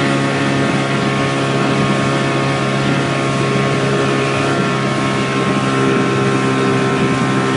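Speedboat engine running steadily under way, a constant engine tone over water and wind hiss.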